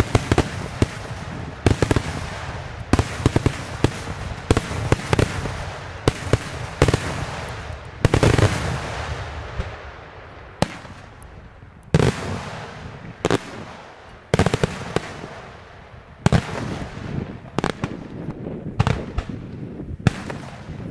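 Daylight fireworks display: aerial shells bursting into coloured smoke with a fast, irregular series of sharp bangs, some in quick clusters, each trailing off in a rolling echo.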